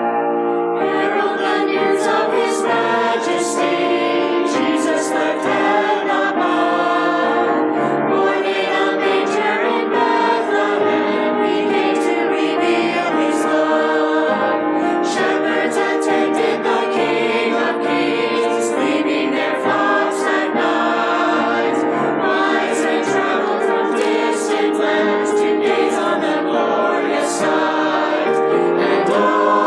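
Church choir singing a Christmas anthem in full, sustained harmony.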